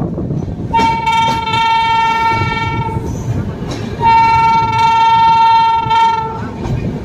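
Train horn sounding two long steady blasts, each about two seconds, a lower second tone joining partway through, over the rumble of a moving train.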